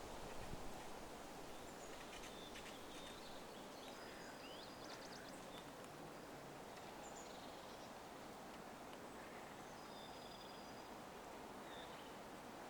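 Faint spring woodland ambience: a steady low rush in the background, with scattered faint bird calls, short chirps, a quick trill and a couple of thin held whistles.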